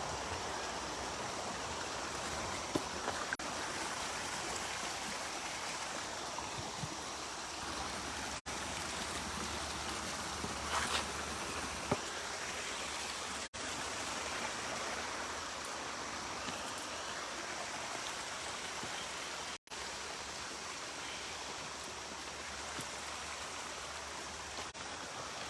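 Steady rush of running stream water, with a few faint clicks; the sound cuts out for an instant three times.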